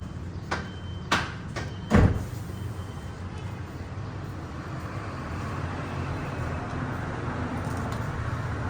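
Steady low rumble of a running vehicle, with a few sharp clicks in the first two seconds and a heavier knock about two seconds in.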